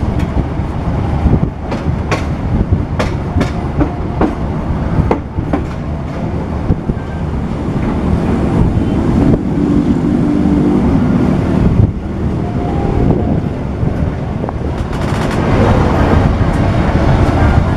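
Passenger train running on the rails: wheels clacking over rail joints in the first several seconds, then a steady low rumble.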